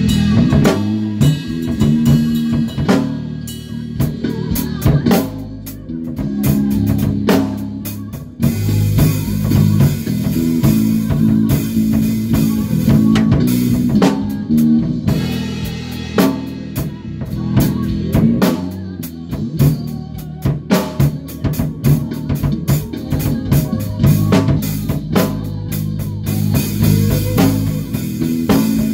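Band rehearsing live: a drum kit with kick, snare and cymbals plays a steady beat over sustained low bass guitar notes, with guitar in the mix; the band comes in fuller about eight seconds in.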